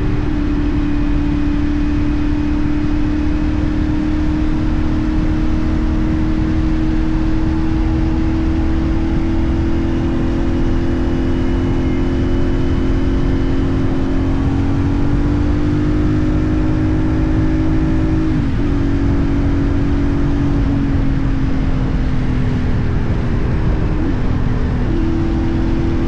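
A CFMoto 450NK parallel-twin motorcycle engine runs at a steady cruising pull under heavy wind and road rush. The engine note dips briefly twice, once about two-thirds of the way in and again near the end, before settling back.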